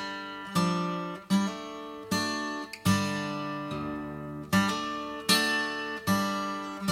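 Background music: acoustic guitar strumming chords, one sharp strum about every three-quarters of a second, each ringing out and fading, with no singing.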